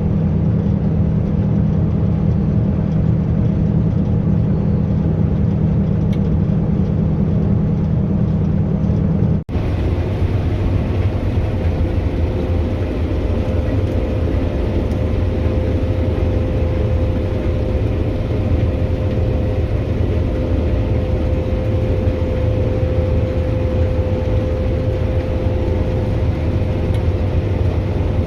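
Claas Lexion 480 combine harvester running steadily while harvesting wheat, a continuous machine hum. About nine seconds in it cuts abruptly to a different steady drone with a thin high whine.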